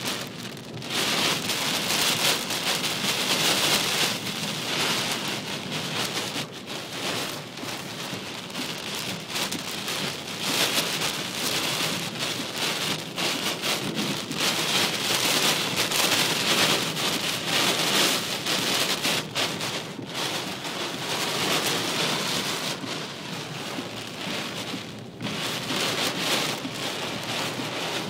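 Heavy rain pouring down in a storm, a dense steady hiss that swells and eases in waves every few seconds.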